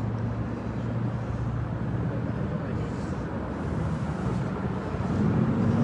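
Steady low engine hum of a vehicle running nearby, over outdoor background noise; it grows louder near the end.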